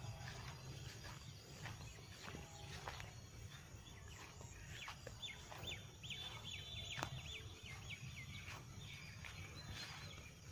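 Faint outdoor ambience with birds chirping: a quick run of short, high, repeated chirps from about five seconds in to past eight seconds, over a low rumble and scattered soft clicks.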